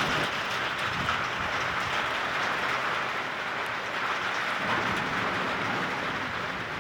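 Heavy thunderstorm rain and wind, a steady rushing noise that eases slightly toward the end.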